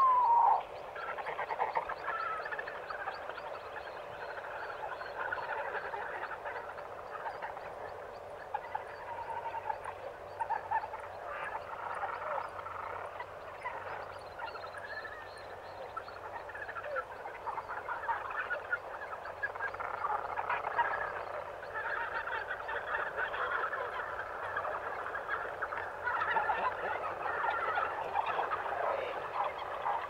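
African jungle morning ambience: a dense dawn chorus of many birds calling over one another, with one louder call right at the start.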